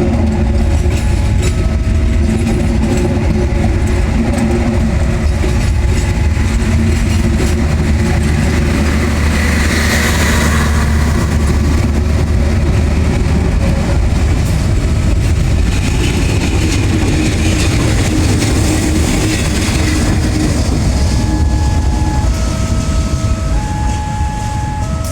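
Train hauled by two diesel locomotives passing, with a heavy, steady low rumble of engines and wheels throughout and a swell of rushing noise about ten seconds in. Short repeating electronic warning tones at several pitches sound over it, most prominent near the end.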